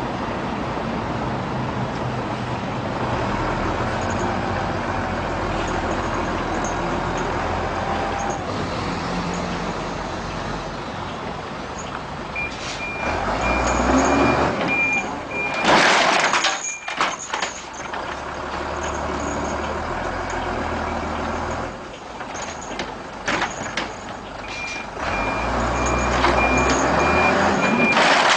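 Truck engine running, with a reversing alarm beeping in two stretches of a few seconds each, about halfway through and near the end. A loud noisy burst follows the first stretch of beeps.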